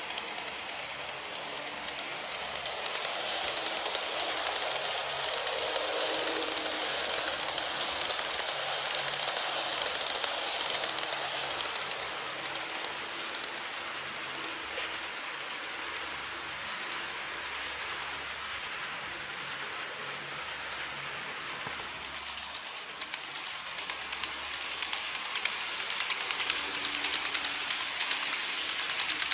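Model train running on its track: a steady hiss of wheels and motor with fine rapid clicking over the rail joints. It grows louder and more clattery near the end as the train comes closer.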